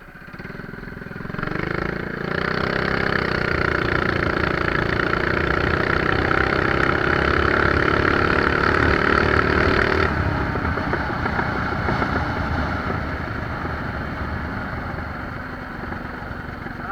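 Mini bike engine pulling at full throttle, its pitch climbing over the first couple of seconds and then held high and steady. It cuts off about ten seconds in when the throttle is released, leaving the rush of wind and rolling noise as the bike coasts.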